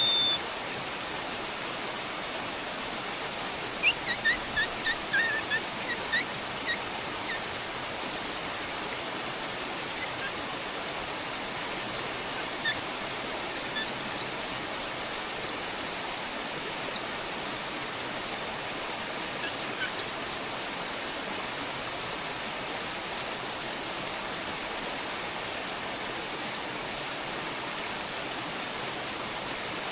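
Small birds chirping: a quick run of short high chirps about four seconds in, then scattered fainter chirps, over a steady rushing hiss.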